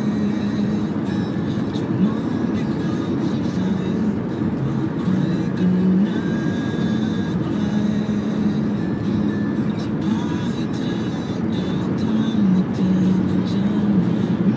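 Steady engine and road noise from a Toyota Camry 2.4 on the move, heard from inside the cabin, with a drone that shifts in pitch a few times. Music plays along with it.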